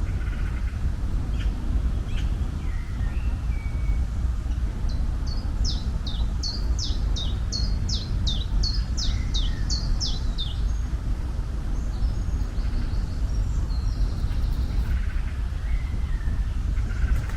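A songbird singing a run of about ten quick, high, downward-sweeping notes, with fainter scattered chirps, over a steady low rumble.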